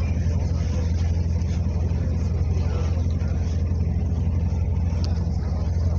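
A boat's engine running at a steady speed with an even low drone.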